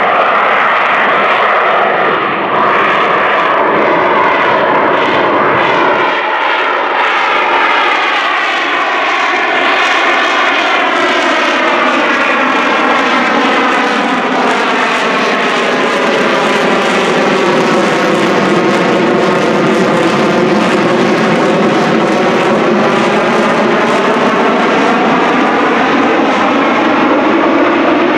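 Rolls-Royce Pegasus turbofan of an AV-8B Harrier II running loud and steady as the jet slows toward a hover on its swivelling thrust nozzles. Its tone carries a slow phasing sweep that shifts down and back up.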